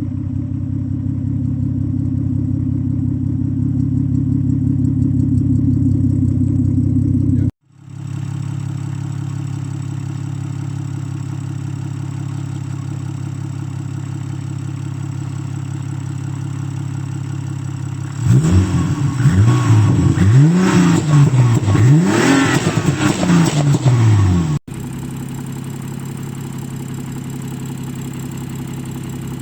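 BMW M135i's N55 turbocharged straight-six, converted to a top-mount single turbo, idling steadily. From about two-thirds of the way in it is revved in about four quick blips, the pitch rising and falling each time, then it settles back to a steady idle. The sound cuts off sharply twice, once before and once after the revving.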